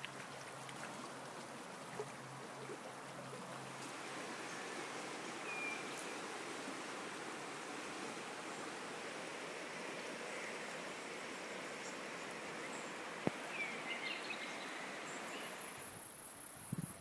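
Yarra River flowing, a steady rushing of water, with two short high chirps partway through.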